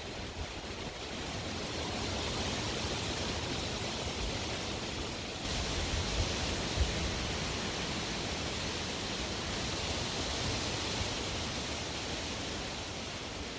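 Strong wind blowing: a steady rushing with a low rumble underneath, growing a little louder about two seconds in.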